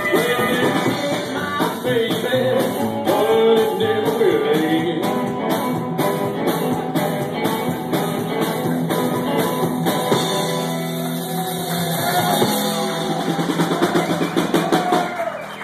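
Live rockabilly band playing: a lead voice singing over electric guitars, upright bass and a drum kit, at a steady driving beat.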